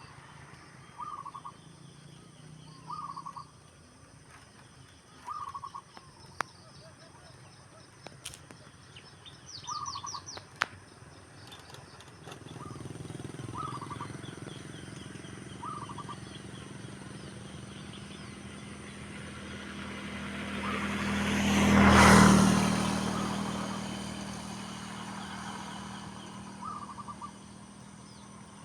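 Wild zebra doves (perkutut) giving short, repeated cooing calls every couple of seconds, with higher twittering from small birds. About halfway through a motor vehicle approaches and passes, loudest about two-thirds of the way in, then fades.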